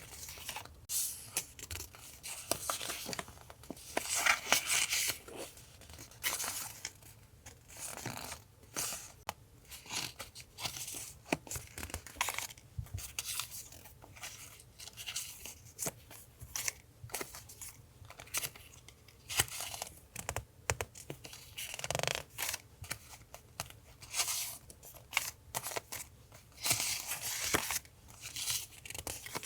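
Paper being handled for collage journaling: irregular tearing and rustling of paper, with many short, scratchy strokes throughout.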